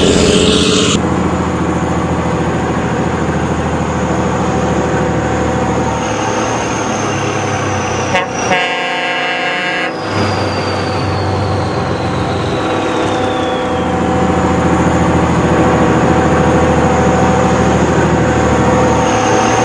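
Heavy truck engine running steadily, with a horn blast lasting about a second and a half around the middle.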